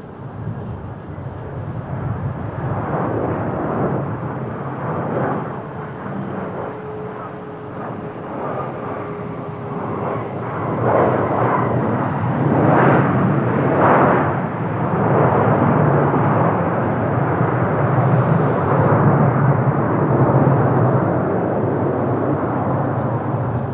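Boeing 737-800 jet airliner's CFM56 turbofan engines running on a landing approach, a steady rushing noise that grows louder about eleven seconds in and stays loud as it passes.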